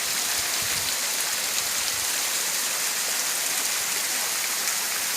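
Steady hiss of a small forest waterfall: water falling and splashing onto rocks and a pool.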